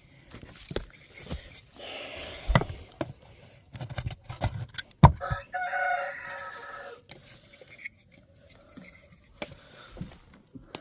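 A rooster crowing once, a drawn-out call of about two seconds starting around five seconds in. Sharp knocks and clatter come before it, the loudest just before the crow.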